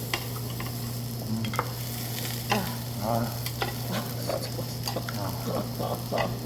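Meat sizzling on a tabletop grill, a steady frying hiss over a constant low hum, with scattered short clicks of utensils.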